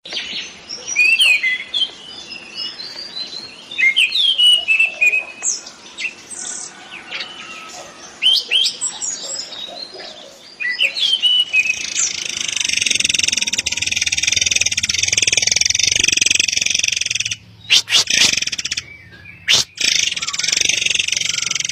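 Murai air song: quick sweeping whistled notes and chirps in short phrases. About halfway through, a louder continuous high buzzing trill takes over, broken by a few sharp clicks and short gaps.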